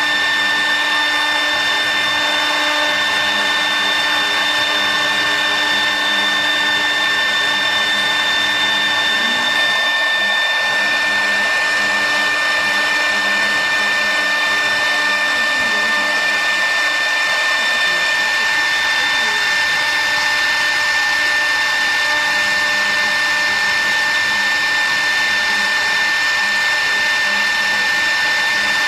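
A machine's electric motor running steadily, with a constant high whine over an even rushing noise.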